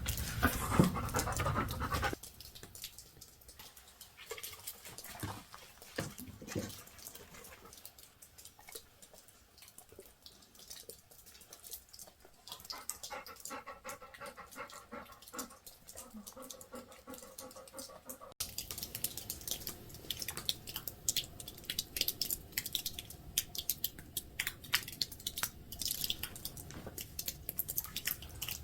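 A dog panting, with scattered light clicks and taps.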